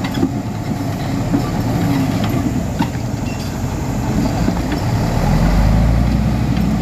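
Heavy earthmoving machinery's diesel engine running steadily, with a deeper low rumble swelling about five seconds in and a few light knocks.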